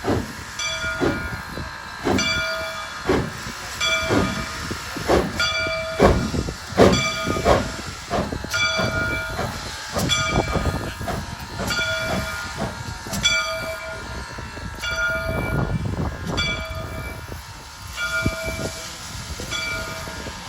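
Soo Line 1003, a 2-8-2 steam locomotive, working past with irregular exhaust chuffs and hissing steam. A bell rings steadily about once a second over it.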